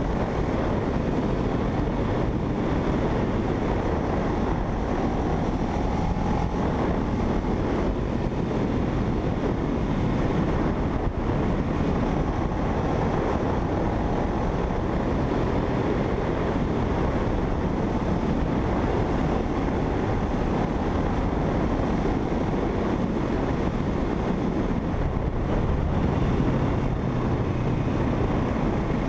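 Motorcycle on the move: steady wind rush over the microphone mixed with the drone of a parallel-twin engine at a constant speed.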